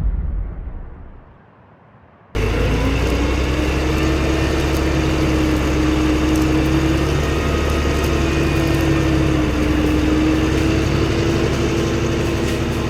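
A low boom fades out over the first second or so. About two seconds in, a Deutz 8006 tractor's air-cooled four-cylinder diesel comes in abruptly, running steadily at an even engine speed.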